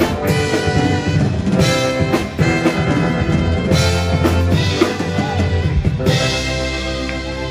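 Live band playing the loud instrumental ending of a pop-rock ballad, with drum kit hits on snare and bass drum over guitar, bass and keyboards. About six seconds in, the drum hits stop and the band holds a sustained chord.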